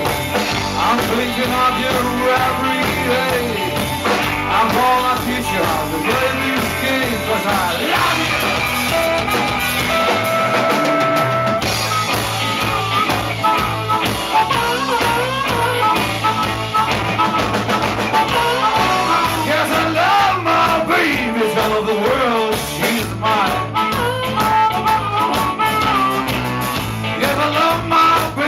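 Rock music: a band song with singing over guitars and drums.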